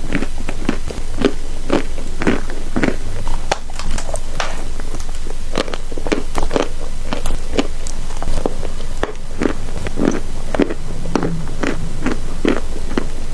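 Close-up crunching of chalk being bitten and chewed: a steady run of short, sharp crunches, roughly two a second, over a low steady hum.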